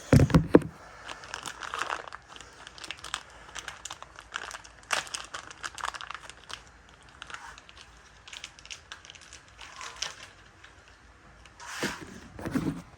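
Plastic packaging crinkling and tearing as a small part is unwrapped, with scattered clicks of handling. There is a thump at the very start.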